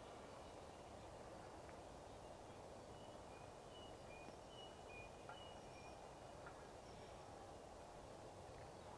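Near-silent outdoor hush with a bird's faint, short chirps repeating in the middle.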